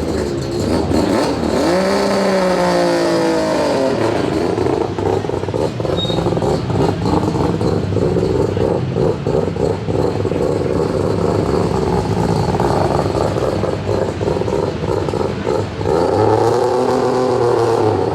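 A three-rotor rotary engine in a Mazda RX-8 rally car idling with a crackling, uneven beat. The engine is blipped twice, once near the start and once near the end, its pitch swooping down and back up each time.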